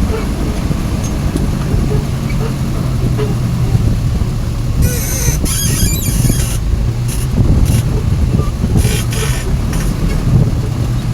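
Truck engine running steadily with a low hum, with several short hissing bursts from about five seconds in.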